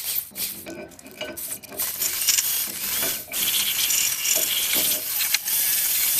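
Metal brake parts clinking as they are handled, then a ratchet wrench clicking rapidly and continuously from about two seconds in, working on the bolts of a rear drum-brake wheel cylinder.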